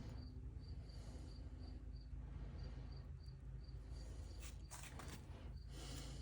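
A high, cricket-like chirp repeating at one pitch about three times a second, over a low steady hum. A few brief rustles come near the end.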